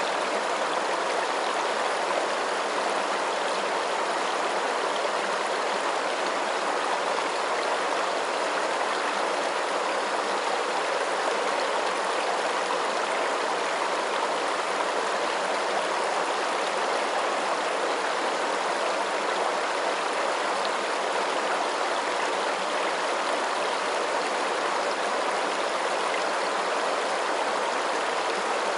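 Flowing water, a steady even rush with no splashes, drips or changes.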